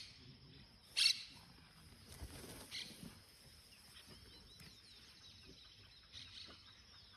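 Faint bird chirps, with a short noisy burst about a second in and a softer one near three seconds.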